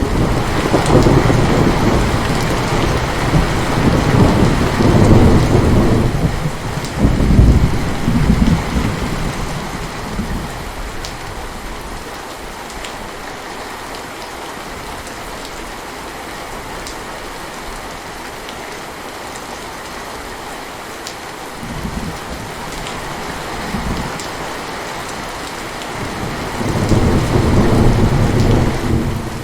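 Steady heavy rain, with thunder rumbling loudly over the first ten seconds or so. Two brief fainter rumbles come near the middle, and another long loud roll of thunder comes near the end.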